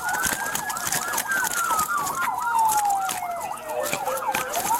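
Two emergency vehicle sirens sounding together, typical of police cruisers: one on a slow wail that rises, holds, then falls over several seconds and starts rising again near the end, the other on a fast yelp. Scattered clicks and rustles sit on top.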